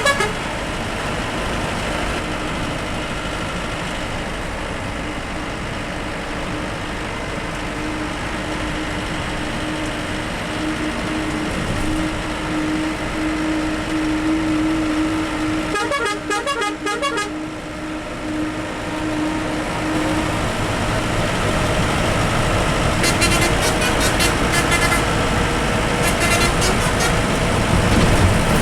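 Bus engine and road noise while driving, with bursts of rapidly repeating horn honking about halfway through and again near the end.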